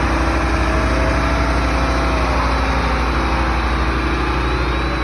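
Large truck engine running at slow parade pace, a steady deep rumble.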